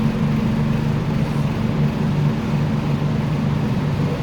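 Steady rumble and electrical hum of an MTR Tung Chung line K-train heard from on board, with two steady low hum tones running throughout.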